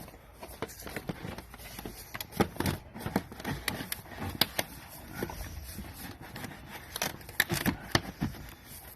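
Dryer vent being pushed and worked into a hole cut in a house wall: irregular knocks, clicks and scrapes as it is fitted, with a few sharper knocks about two and a half seconds in and again around seven to eight seconds.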